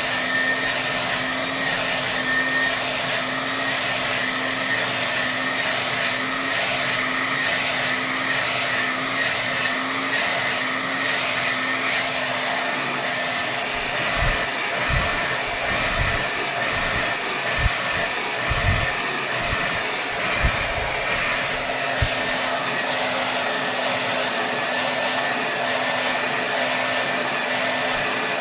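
Hair dryer running steadily at full power: a constant rush of air with a low, slightly wavering hum. Several low thumps come in the middle.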